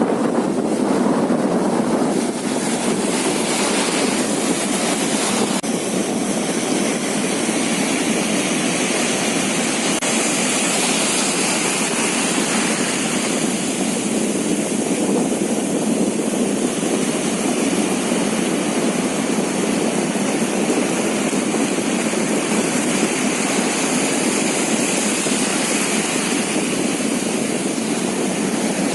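Fishing boat under way at sea, its engine running steadily under a constant rush of wind and water.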